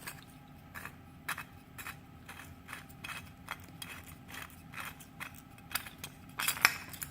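Light metallic clicks and ticks from a small air grinder's loosened top cap being unscrewed by hand, about one or two a second, with a louder cluster near the end.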